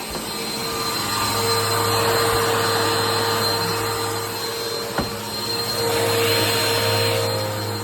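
Bissell PowerTrack upright vacuum running, its motor whining steadily as it vacuums small rugs, swelling louder twice. A single sharp click about five seconds in.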